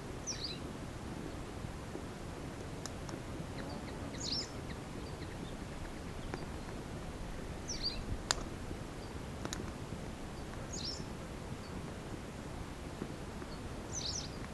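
A small bird repeating a short, high chirp about every three to four seconds, over a steady low outdoor rumble, with a few sharp clicks, the loudest about eight seconds in.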